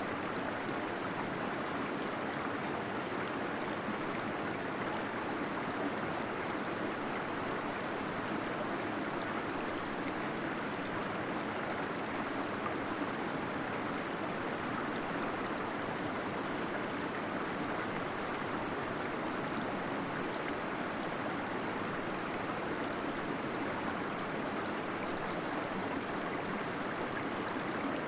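Small waterfall splashing and gurgling in a cave, a steady even rush of water with no breaks.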